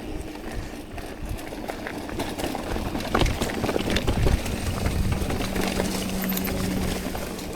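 Mountain bike ridden over a dirt trail: tyre rumble and wind on the helmet camera, with the chain and frame rattling in short clicks and knocks. A steady low hum joins about five seconds in.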